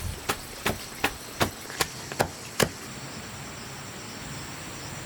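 A run of sharp, evenly spaced knocks, about two and a half a second, stopping a little over halfway through, over a steady high buzz of insects.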